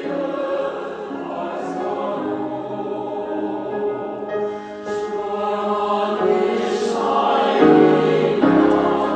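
A choir singing sustained chords that swell louder toward the end.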